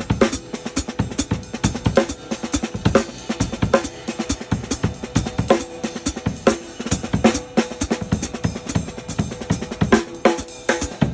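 DW acoustic drum kit played in a fast groove: rapid kick and snare strokes, with a ringing accented hit about every second and a quick run of hits near the end.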